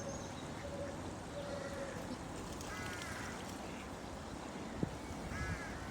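Faint duck calls over steady background noise: a short call about three seconds in and another near the end, with a single light knock shortly before the second.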